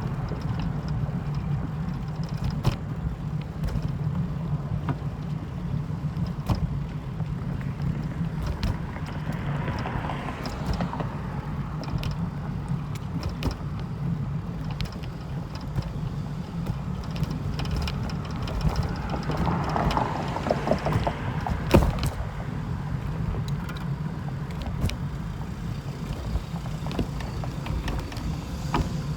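A steady low mechanical rumble with scattered clicks and one sharper knock about 22 seconds in.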